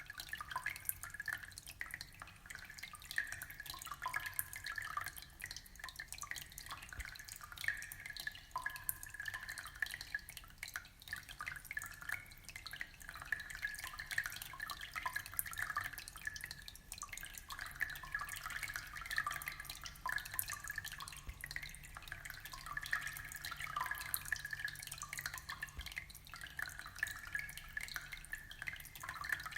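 Aquarium water trickling and bubbling: a steady, dense patter of small drips and splashes.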